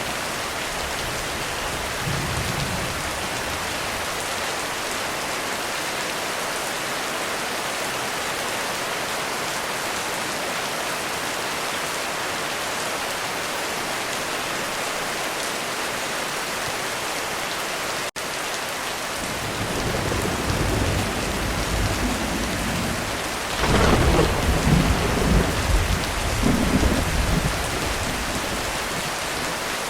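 Heavy rain falling steadily on a roof. Thunder rolls in about two-thirds of the way through, grows to a loud rumbling peak and then eases off.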